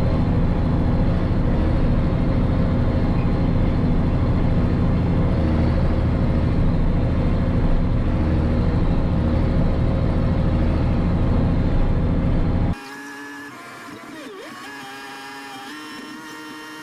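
Diesel engine of a Case 2670 tractor running steadily under load while pulling a chisel plow through loose soil. About 13 seconds in the sound cuts off suddenly to a much quieter passage with a few faint steady tones.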